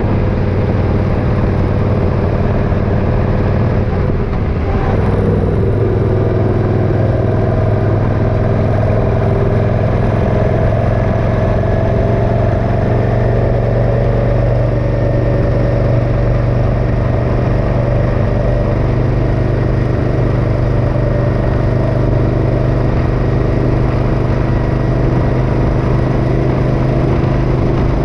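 Motorcycle engine running steadily at a cruising speed, its note shifting briefly about five seconds in.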